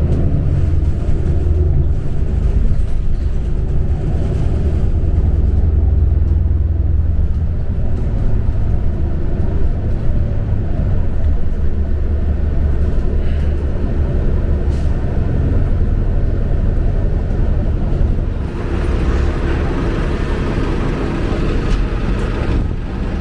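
Interior ride sound of a New Flyer Xcelsior XD40 diesel transit bus: a steady low engine drone and rumble. A louder rushing noise joins in about eighteen seconds in.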